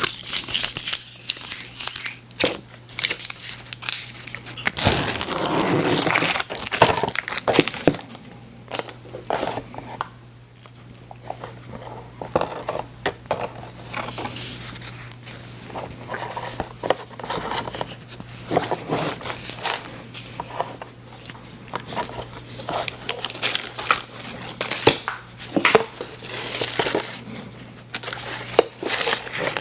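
Plastic candy wrappers crinkling and tearing close to the microphone in a run of crackly rustles, busiest a few seconds in and again near the end, over a steady low hum.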